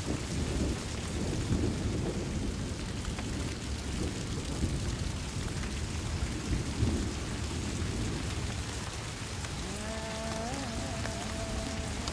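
Steady rain falling on a forest, with a low rumble underneath. About ten seconds in comes a short pitched call in a few stepped tones.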